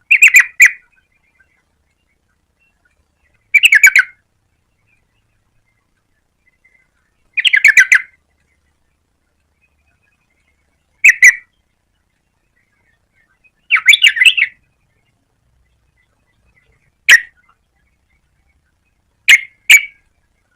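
Yellow-vented bulbul calling: seven short bursts of quick chattering notes, each under a second, a few seconds apart.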